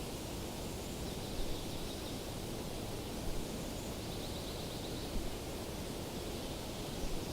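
Steady outdoor nature ambience, an even rushing hiss, with faint high trills about a second in and again around four seconds in.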